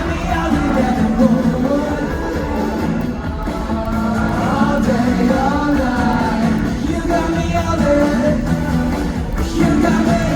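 A male voice singing a pop-rock song live over a loud backing band.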